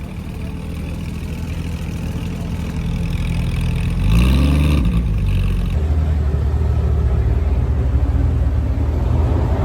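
Car engine running with a low, steady exhaust note. About four seconds in there is a short rev rising in pitch, after which the engine settles into a louder, deeper rumble.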